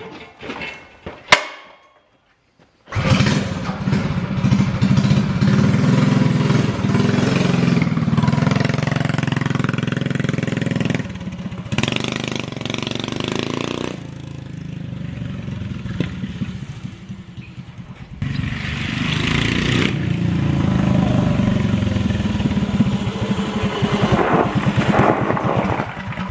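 Predator 212 Hemi single-cylinder engine on a mini bike, fitted with a straight pipe, starting up about three seconds in after a few sharp knocks, then running loud and rising and falling in revs, with stronger revving around the middle and again a few seconds later.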